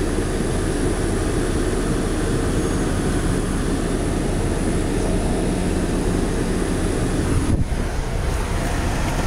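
A car's engine running with the ventilation fan on, heard from inside the cabin as a steady low rumble.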